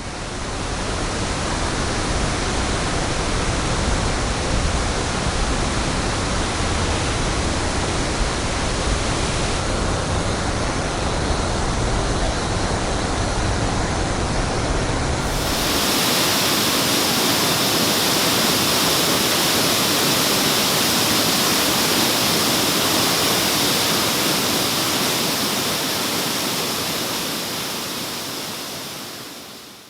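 Waterfall rushing in a steady roar of falling water with a deep rumble. About halfway through the sound changes abruptly to a brighter, hissier rush with little low end, then fades out near the end.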